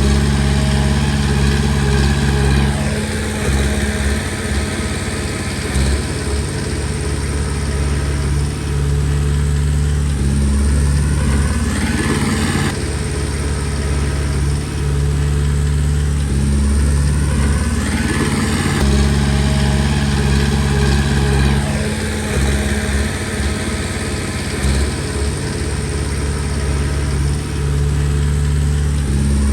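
Komatsu D20P bulldozer's diesel engine running steadily, with a sweeping fall and rise in pitch that comes back about every seven to eight seconds.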